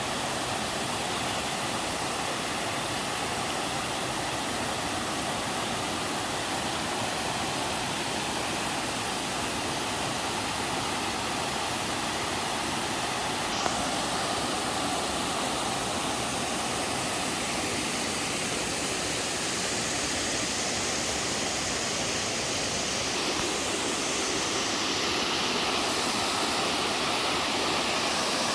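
Waterfall on a mountain stream, water pouring steadily in a full, even rush. A single short click comes about halfway through, and the rush grows slightly louder and brighter near the end.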